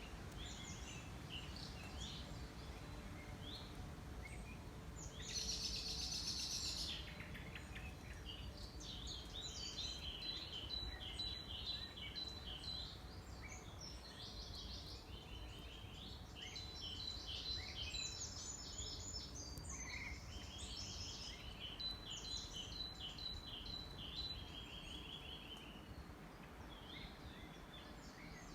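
Songbirds singing in overlapping chirping phrases, one louder burst of song about five seconds in, over a steady low background rumble.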